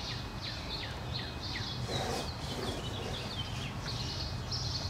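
Songbirds chirping in quick, repeated short notes that sweep downward, over a steady low background noise.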